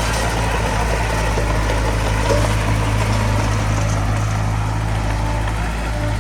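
Heavy machine's diesel engine running steadily, a low, even drone.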